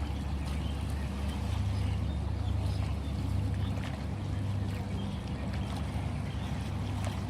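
Sea water washing over a steady low rumble, with no breaks or single loud events.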